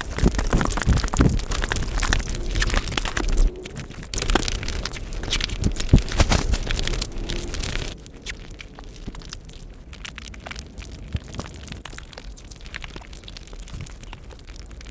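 Close-miked eating of puri with curry: chewing and mouth sounds made of dense, quick clicks and crackles, louder in the first half and softer from about eight seconds in.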